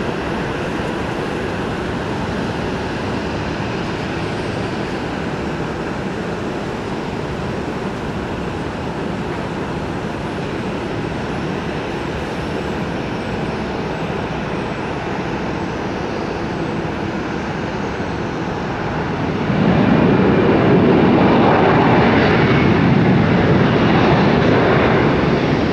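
Airliner jet engines running with a steady roar, which swells noticeably louder about twenty seconds in.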